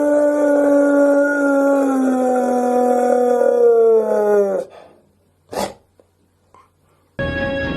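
A dog howling on command in imitation of an air-raid siren: one long howl that slowly falls in pitch and breaks off about four and a half seconds in. After a moment of near silence, music starts just before the end.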